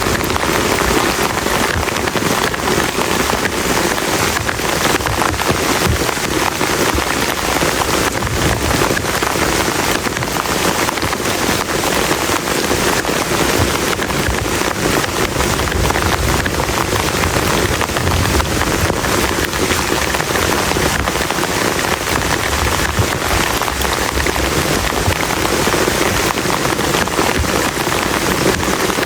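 Heavy rain falling steadily, a dense, even patter of drops hitting a plastic tarp.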